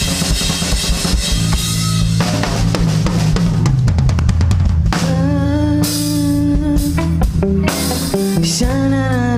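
Live rock band playing an instrumental passage: drum kit and bass guitar with busy drumming, and from about halfway a lead electric guitar comes in with long held, bending notes.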